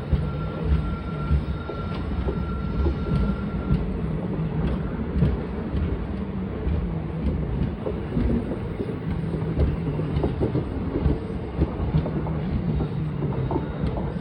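Train running along the track: a steady rumble of wheels on rails with irregular knocks, and a faint thin whine over the first few seconds.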